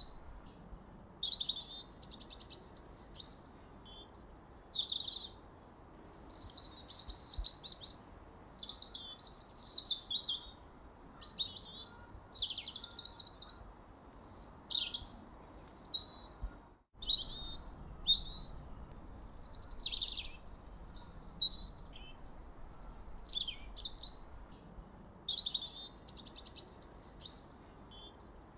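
Birds singing and chirping: a steady stream of short, varied high-pitched phrases and chirps, many sweeping down in pitch, over a faint low background hiss. The sound cuts out completely for a split second a little past the middle.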